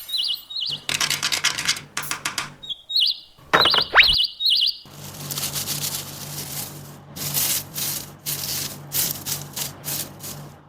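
Rhythmic scraping strokes, about three a second, like hand sanding or rubbing on a material, over a low steady hum. Short repeated bird chirps come at the start and again in a run around the middle.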